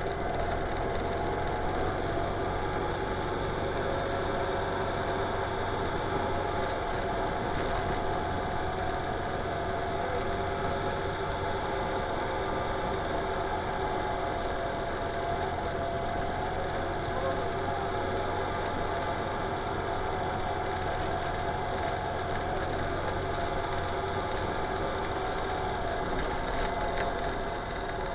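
Ural Retro sidecar motorcycle's air-cooled boxer twin running steadily at cruising speed, with tyre noise from the dirt road underneath.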